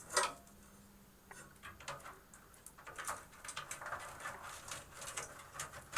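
Power cables and their plastic connectors being handled and routed inside a computer case: a sharp clatter just after the start, then scattered small clicks and rustles.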